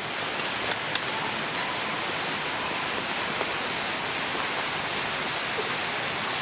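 Steady, even rushing noise with a few faint ticks in the first two seconds.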